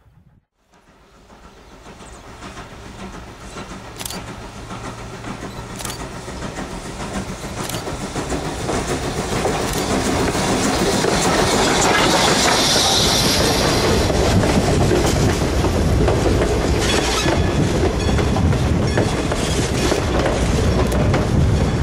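Strasburg Rail Road No. 90, a 2-10-0 Decapod steam locomotive, approaching with its train: the rumble and clatter of locomotive and cars grow steadily louder over about ten seconds, then stay loud as the train runs close by, with a few sharp knocks along the way.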